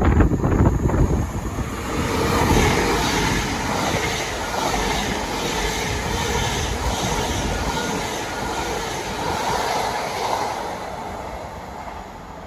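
A train passing, its rumble and wheel noise steady for several seconds and then fading near the end, with wind buffeting the microphone at the start.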